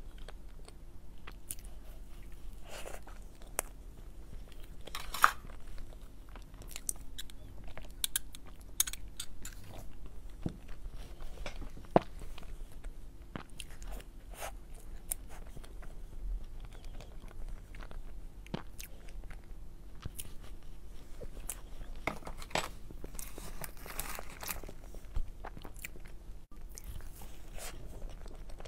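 Close-miked eating sounds of someone chewing soft layered matcha cake and cream-filled crepe roll: wet smacks and many small mouth clicks, with a few sharper clicks.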